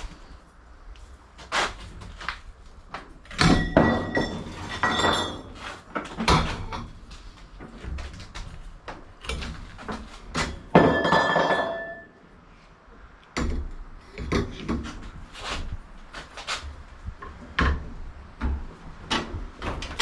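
A series of irregular knocks, bangs and clunks, the loudest clusters with a brief metallic ring.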